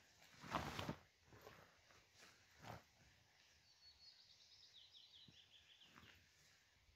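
A small bird singing a trill of quick notes that fall in pitch, from about halfway in. Before it come two short close noises, the first, about half a second in, the loudest.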